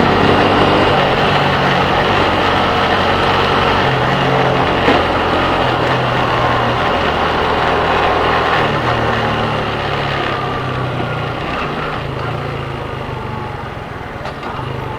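Motorcycle engine running while riding, with steady road and wind noise. The engine's pitch shifts up and down a few times as speed changes, and the whole sound eases off slightly near the end.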